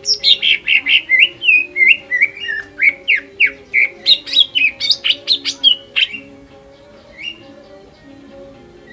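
Green leafbird (cucak ijo) singing a fast, loud run of varied chirps and whistles that stops about six seconds in, followed by one short call.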